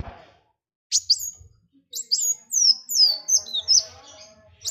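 Songbird singing: a sharp high call about a second in, then a quick run of high, thin notes, each sliding downward, with fainter lower notes underneath.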